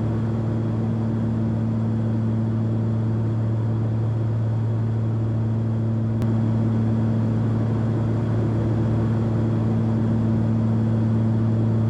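Cessna 340's twin six-cylinder turbocharged piston engines running steadily at climb power, a deep, even drone heard inside the cabin, growing slightly louder about seven seconds in.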